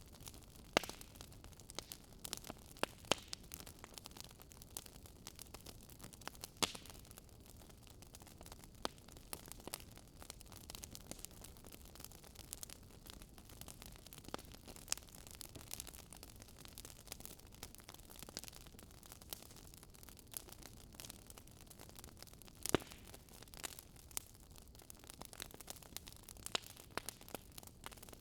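Wood fire crackling in a fireplace: irregular sharp pops and snaps over a low steady hiss, with a few louder pops.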